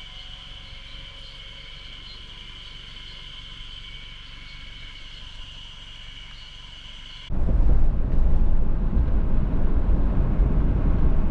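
A steady chorus of spring cicadas singing in woodland. About seven seconds in it cuts abruptly to a much louder low rumble of a car on the move.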